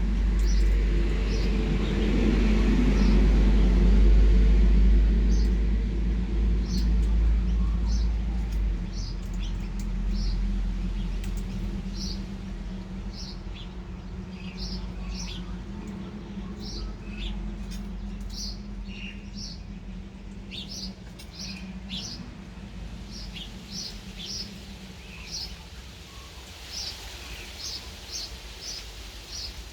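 Birds chirping with many short, high calls. A low rumble is loudest in the first several seconds and then fades away.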